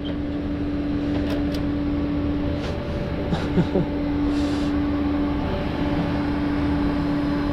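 Tow truck running with a steady droning hum and a low rumble, with a few light clicks over it.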